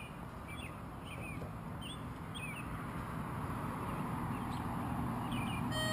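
Small birds chirping, a series of short, quick chirps repeated every half second or so, over a steady outdoor hiss that slowly grows louder.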